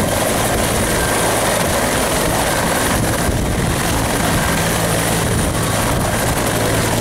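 Helicopter running close by: steady, loud rotor noise with a thin high turbine whine over it.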